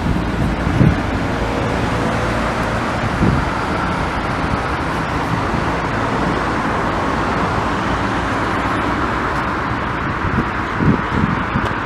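Steady road traffic noise of cars passing, with a few brief low thumps.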